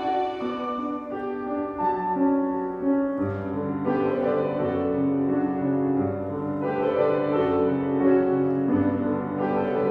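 Violins and piano playing live music; lower piano notes join about three seconds in.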